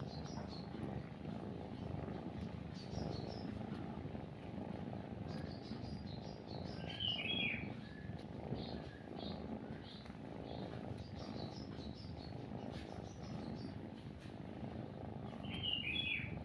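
A cat purring steadily and continuously, with birds chirping over it: a short bright phrase about seven seconds in and again near the end, and fainter chirps between.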